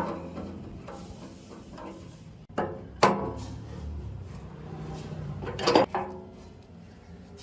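Workshop handling noise: parts and tools being moved about, with a few sharp knocks and clinks, the loudest pair close together a little before the end.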